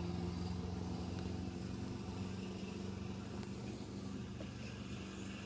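A small motor running steadily with a low hum, getting slowly quieter.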